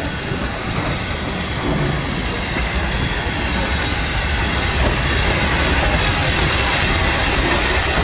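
A train running along the rails, a steady rumble with hiss that slowly grows louder.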